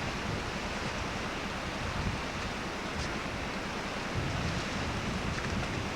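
Steady hiss with an uneven low rumble and no distinct events, like wind buffeting a camcorder's microphone.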